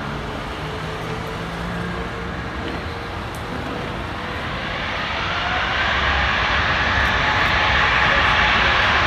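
Boeing 777's jet engines running, then spooling up from about halfway through: a rising whine over steady engine noise that grows steadily louder as takeoff thrust comes on.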